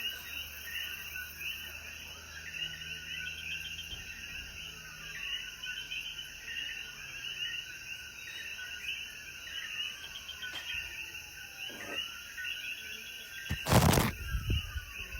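Dense evening chorus of Puerto Rican coquí frogs calling, many short repeated chirps overlapping, with a few long tones sliding slowly downward in pitch. A single loud thump about a second before the end.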